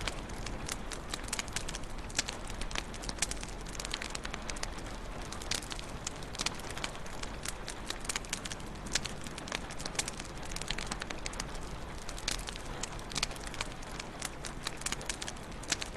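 Wood fire in a fireplace crackling steadily, with frequent irregular sharp pops and snaps over a soft hiss.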